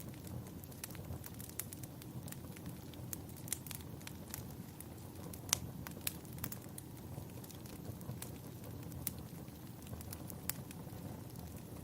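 Wood fire crackling in a fireplace: irregular sharp pops and snaps over a steady low rumble of the flames, with one louder pop about halfway through.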